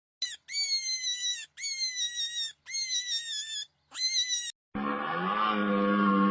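Recorded animal calls: a run of five high-pitched, wavering calls about a second each, falling slightly in pitch. Near the end a different animal's long, low call begins.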